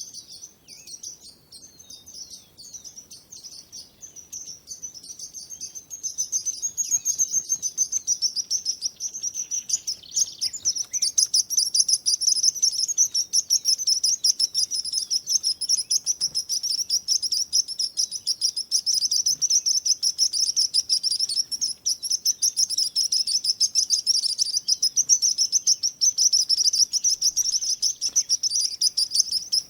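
Small birds chirping in a dense chorus of rapid, high-pitched notes, growing louder about six seconds in.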